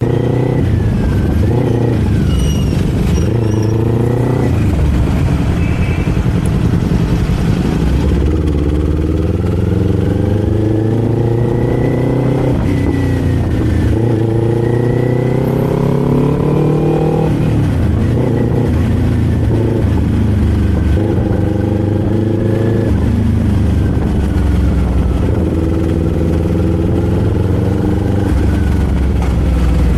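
Kawasaki Z400 parallel-twin engine and exhaust under way, pulling up through the gears: the pitch climbs for a few seconds and then drops at each shift, several times over.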